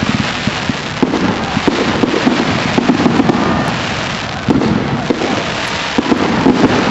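Fireworks display in full barrage: a dense, continuous crackling of many small pops, with heavier bangs coming in clumps every second or so.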